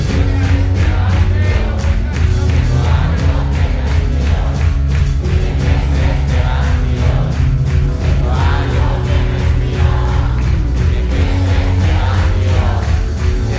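Live pop concert music heard from the audience: a loud band with heavy bass and held chords, with singing voices over it that grow stronger in the second half.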